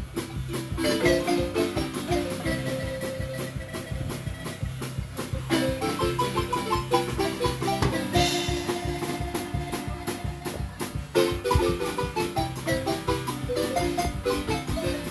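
Acoustic marimba playing an upbeat tune: quick runs of mallet strokes over a steady, repeating bass line.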